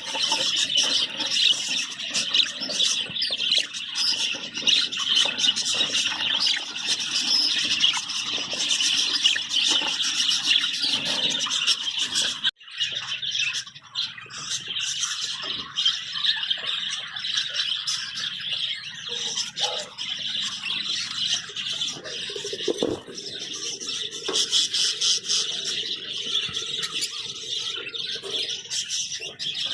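Many budgerigars chattering and chirping at once, as a continuous dense twittering, broken by a momentary drop-out about twelve seconds in.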